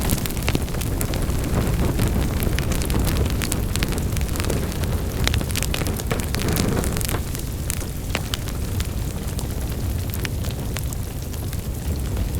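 Wood fire in a fireplace burning, with a steady low rumble of flames and many irregular sharp crackles and pops.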